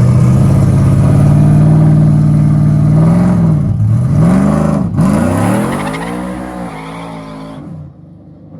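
Street-race pickup truck's engine launching at full throttle: the revs hold high, then surge up and down several times as the tires spin without traction, then climb again as the engine fades away down the road.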